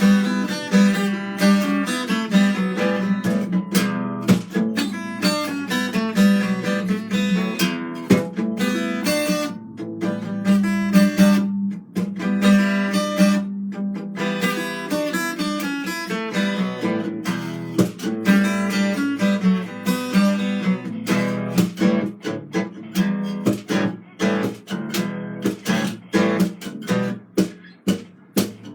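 Solo acoustic guitar being played, a run of plucked and strummed notes.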